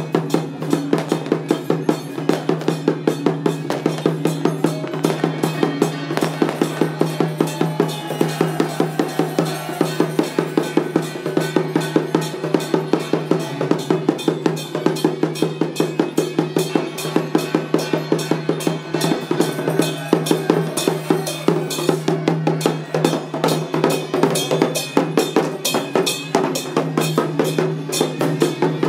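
Temple-festival procession percussion: drums and other percussion beating a fast, steady rhythm of about four strong strokes a second, over a steady low droning tone.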